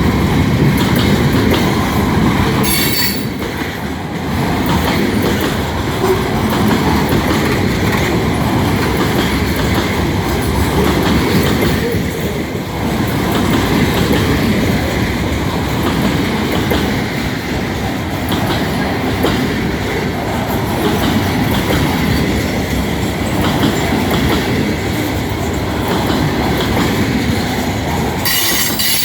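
Long freight train rolling past, a steady heavy rolling noise of wheels on rails, with two brief high squeals, about three seconds in and near the end, as the train slows down.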